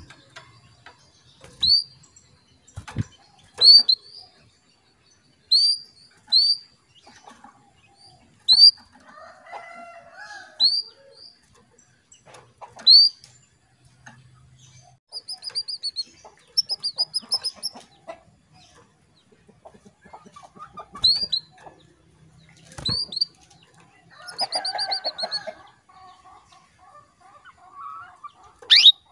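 Female canary calling: short, sharply rising call notes repeated every second or two, with a few quick trilled runs at the same pitch and softer chatter between. These are the hen's calls used to stir male canaries into singing. A few sharp thumps are scattered among the calls.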